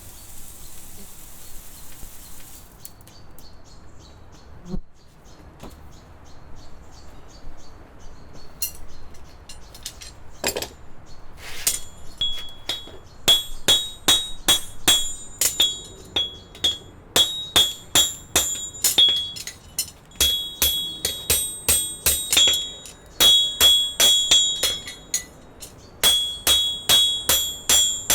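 A hammer striking a steel horseshoe, each blow leaving a clear metallic ring. Light taps come first, then from about twelve seconds in the blows turn loud, in quick runs of about three a second with short pauses between.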